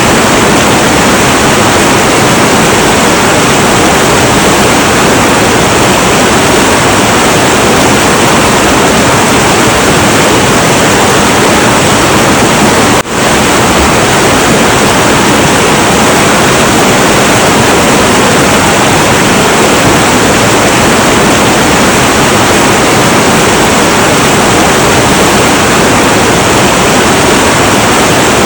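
Heavy, turbulent river water rushing in a loud, steady roar with no let-up. Near the middle it drops out for a split second.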